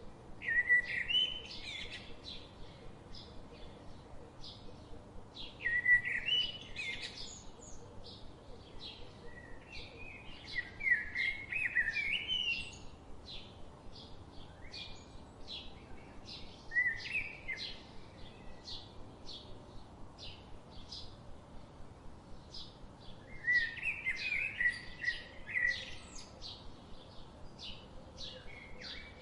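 Songbirds singing: short warbling phrases come every few seconds. Behind them a steady, high chirp repeats about twice a second.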